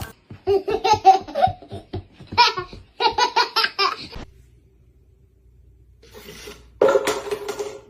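High-pitched human laughter in quick rhythmic bursts, several runs of it, then a pause and one shorter burst near the end.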